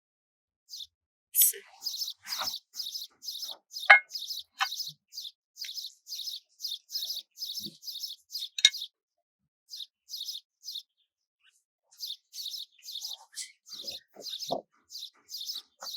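Small bird chirping repeatedly, short high chirps at about three a second with a pause in the middle, and a few sharp clicks among them.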